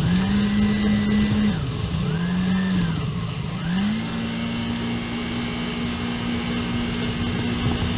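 Jet ski engine revving up and down about three times, then held at a steady, slowly rising pitch, with rushing wind and water noise.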